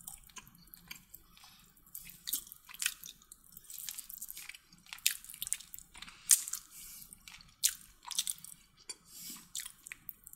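A person chewing kottu roti close to the microphone: irregular mouth clicks, smacks and crunches as the food is bitten and chewed.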